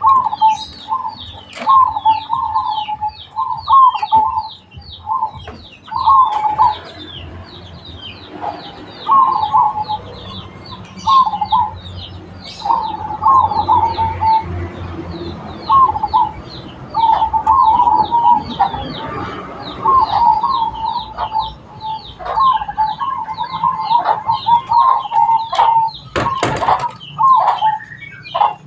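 Zebra dove (perkutut) cooing, repeating short rolling phrases every second or two, over fast, high chirping that carries on throughout. There is a brief rustling burst near the end.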